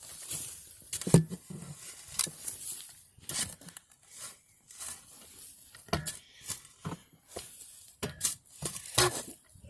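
Irregular rustling, scraping and sharp knocks of handling noise as the camera is being fitted onto a mount, the loudest knock about a second in.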